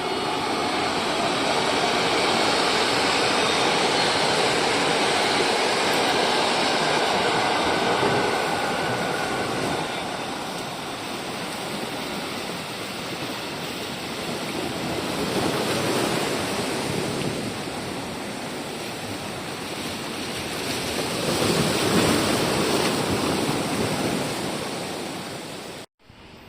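A train passing at speed: a steady rush of wheel and air noise, loudest in the first several seconds and swelling twice more later, that cuts off abruptly just before the end.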